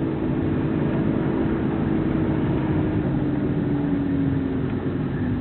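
Road and tyre noise inside the cabin of a VW e-up! electric car while driving, with a low hum that slowly falls in pitch.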